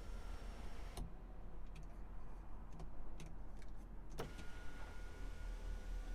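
BMW M340i's turbocharged 3.0-litre inline-six idling steadily with a low rumble. Two sharp clicks come about a second in and about four seconds in.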